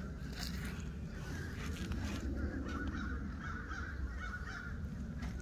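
Birds calling in the background, over a steady low rumble on the microphone.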